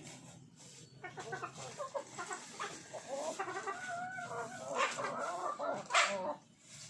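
Several chickens clucking, their calls overlapping, with a loud sharp call about six seconds in.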